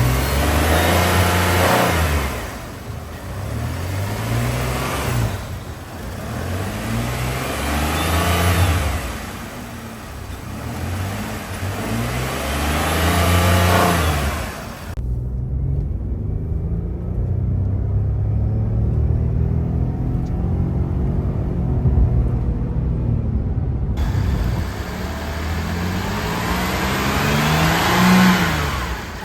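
Ford F-150 3.5L PowerBoost twin-turbo V6 being revved in repeated rises and falls: about four revs in the first half, a steadier low running stretch in the middle, and one more rev near the end.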